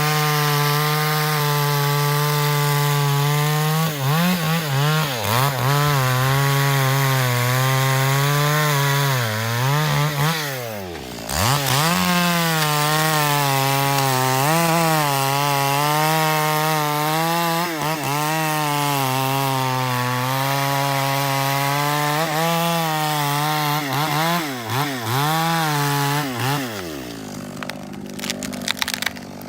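Two-stroke chainsaw running at high revs through wood, its pitch wavering as the chain takes and sheds load. The revs sag briefly a few times, drop away almost to nothing a little past ten seconds in and climb back, then fall off near the end as the throttle is released.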